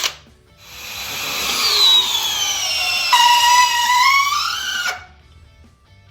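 DeWalt DCD800 cordless drill driving a 10-inch timber screw into a pressure-treated 4x4. Its motor whine drops in pitch as it slows under the load, then rises again near the end and stops abruptly, with light background music underneath.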